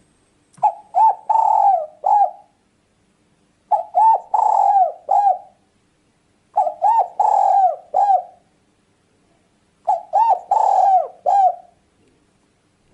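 Spotted dove (tekukur) cooing: four phrases of several short coos each, repeated about every three seconds.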